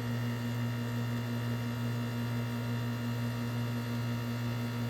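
1984 Carrier Sierra 17,900 BTU window air conditioner running: a steady low compressor hum with fan air noise. The owners say it doesn't sound the greatest and put that down to oil not yet circulating after 14 to 15 months idle, and to a compressor that may still be cold inside.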